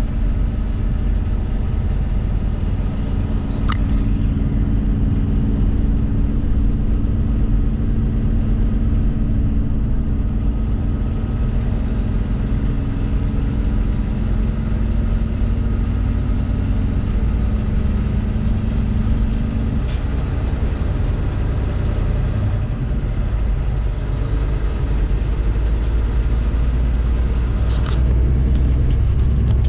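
Truck driving at a steady speed: a continuous low road-and-engine rumble with a steady engine hum, and a few short clicks.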